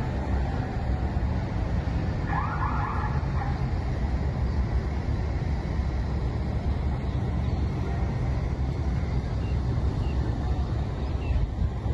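A car driving: a steady low rumble of engine and road noise, with a brief higher-pitched sound about two to three seconds in.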